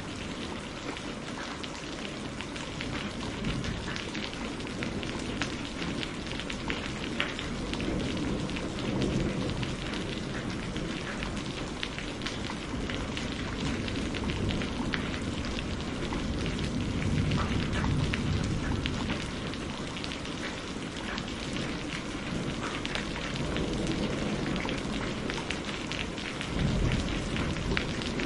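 Steady rain falling, thick with the ticks of individual drops, while low thunder rumbles swell and fade a few times.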